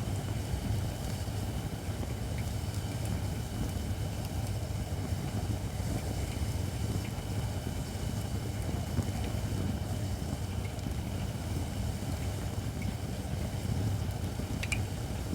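Campfire of Japanese white oak (shirakashi) logs burning: a steady low rumble with a few sharp crackles, the loudest one near the end.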